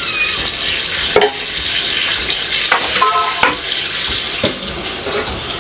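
Water running from a tap into a kitchen sink as things are rinsed, with a few knocks and clatters of items against the sink and a brief squeak a bit past halfway.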